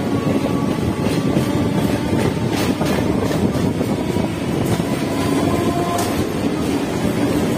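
Electric suburban local train running along the track, heard from the open side of the coach: a steady rumble of wheels on rails, with several sharp clicks a few seconds in as the wheels pass over rail joints.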